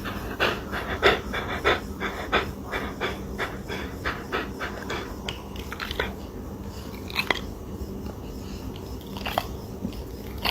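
A dog panting in quick rhythmic breaths, about three a second, fading out after about five seconds, with a few sharp clicks later on.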